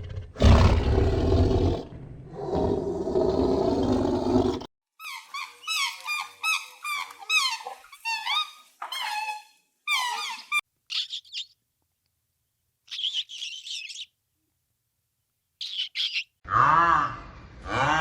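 A large animal's loud, low call for about four seconds, then runs of quick, high bird chirps broken by sudden gaps, and near the end a harsh honking call.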